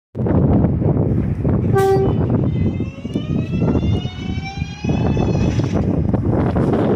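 R143 subway train pulling out: a short horn toot about two seconds in, then the electric traction motors' whine rising steadily in pitch over the rumble of wheels on rail as it accelerates.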